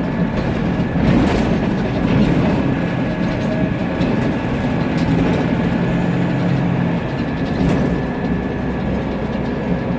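Interior noise of a Mercedes-Benz Conecto CNG city bus under way: the OM 936 G engine running, with rattles and a steady high whine over the low engine hum.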